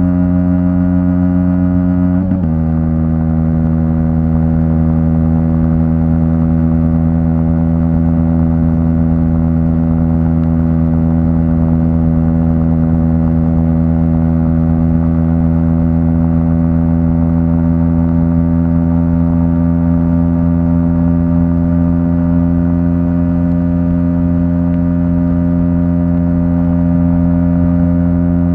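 Aprilia SX 125's single-cylinder engine running through an Arrow exhaust at a steady speed, dropping slightly in pitch about two seconds in and then holding an even note.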